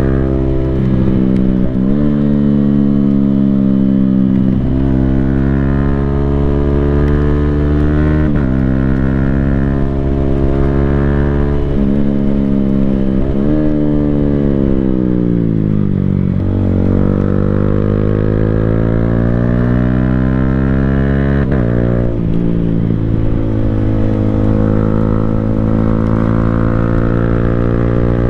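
Yamaha Sniper 155R's single-cylinder engine through an aftermarket Akrapovic full exhaust system, pulling through the gears. The pitch steps at each quick-shifter upshift, several times in the first half. Partway through the engine slows with a falling pitch, then climbs again and shifts once more.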